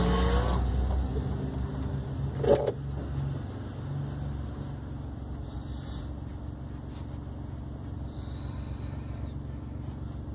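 VW Up TSI's turbocharged three-cylinder engine heard in the car: the engine noise drops off about half a second in as the throttle is lifted, a short sharp burst comes about two and a half seconds in, then the engine runs steadily at light load.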